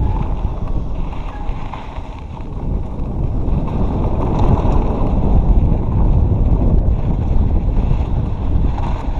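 Wind rumbling on the microphone of a rider-mounted camera during a mountain-bike ride on a dirt trail. It grows louder about three seconds in, as speed picks up.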